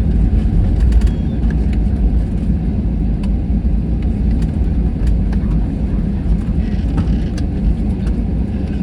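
Airbus A321 cabin noise while the airliner rolls on the ground after landing: a steady low rumble with scattered light rattles and clicks.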